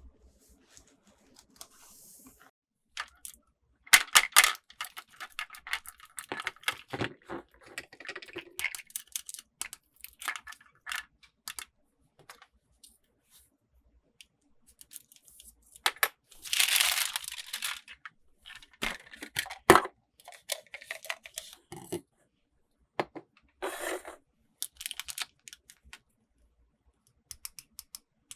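Toy packaging handled and opened by hand: tearing and crinkling of wrapping, with scattered clicks and taps of small plastic pieces. A longer tearing stretch comes a little past the middle.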